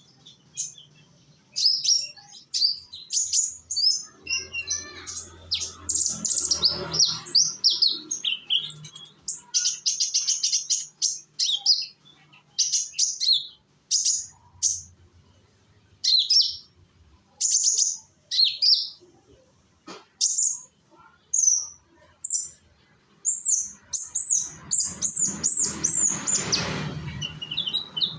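A young konin songbird singing a rapid, busy song of high chirps, trills and quick slurred whistles in phrases broken by short pauses, the kind of song used as a lure to set other konin singing. A faint low hum lies underneath about four seconds in and again near the end.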